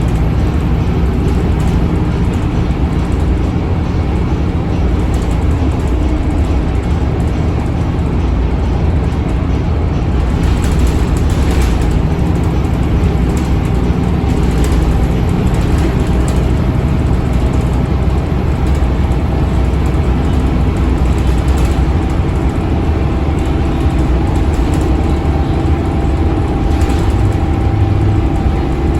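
Scania DC9 five-cylinder diesel engine of a Scania K280UB bus running under way, a loud steady drone that shifts a little in pitch, with the bus's ZF Ecolife automatic gearbox driving.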